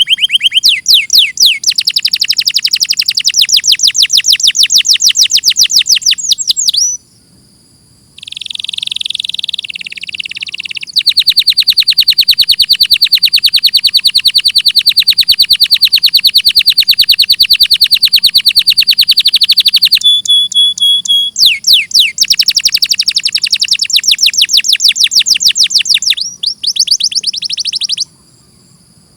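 Domestic canary singing in rapid trills of quickly repeated high notes. One trill runs unbroken for about nine seconds, and short pauses fall between phrases.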